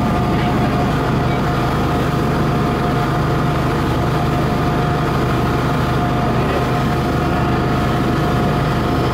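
Fishing boat's inboard engine running steadily under way: a loud, even low drone with a steady higher tone above it.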